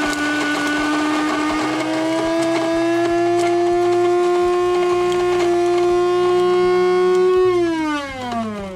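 Krups electric burr coffee grinder's motor running with a steady whine that creeps slightly up in pitch, then winding down with a falling pitch near the end as it is switched off.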